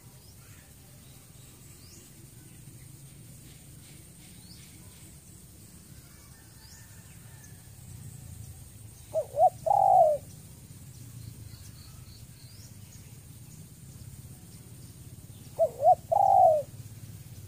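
Spotted dove cooing in two phrases about six seconds apart, each two quick short notes followed by a longer coo. Faint high chirps of small birds sound in the background.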